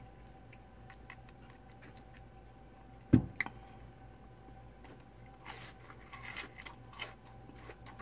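Close-up chewing and crunching of crispy fried fish, with crackly bites clustered about five to six and a half seconds in and small mouth clicks throughout. A single loud, sharp knock on the desk about three seconds in.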